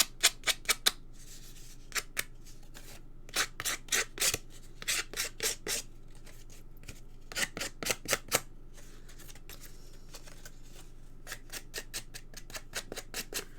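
Scissor blade scraped along the edges of a cardstock panel to fray and distress them: about six bursts of quick, short scraping strokes, with pauses between.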